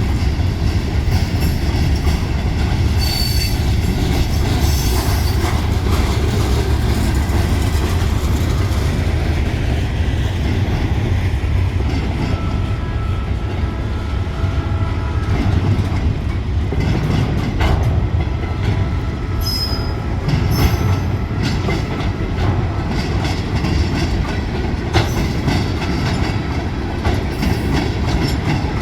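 Cincinnati Eastern Railroad freight train's cars rolling past: a steady heavy rumble with wheels clicking over rail joints and brief high wheel squeals now and then.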